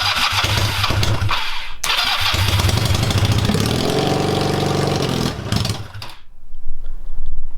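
Honda CB250 engine firing up for the first time through short straight-pipe exhausts. It catches, stumbles about two seconds in, revs up around four seconds, then dies near six seconds once it has burned the fuel left in the carburettor, with no tank fitted.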